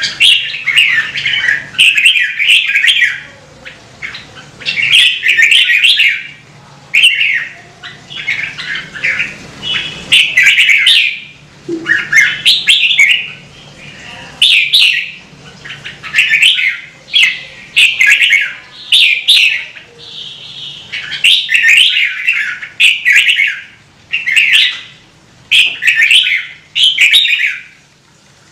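Red-whiskered bulbul singing: loud, short warbled phrases, one after another with brief pauses, about one a second.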